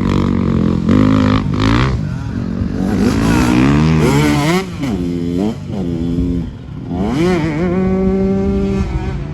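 Dirt bike engine revving, its pitch rising and falling again and again as the throttle is worked, then holding steadier for a couple of seconds near the end before dropping.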